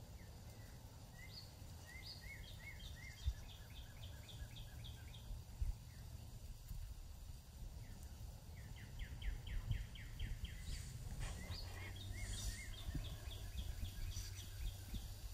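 A songbird singing three songs, each a quick run of evenly repeated high notes, over a low rumbling background.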